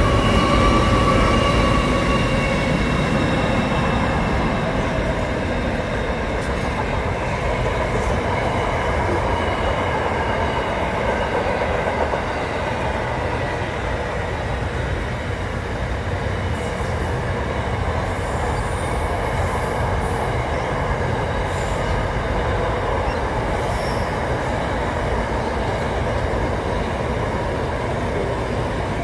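Long freight train passing, hauled by Pacific National NR-class diesel-electric locomotives, whose engine tone is strongest at the start and fades over the first few seconds. Wagons then roll past with a steady rumble of wheels on rail, and brief high-pitched wheel squeals come between about 17 and 24 seconds in.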